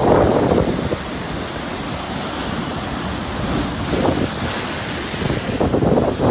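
Storm waves surging and breaking on the shore in typhoon-force wind, with wind buffeting the microphone. The roar swells at the start, again about four seconds in, and near the end.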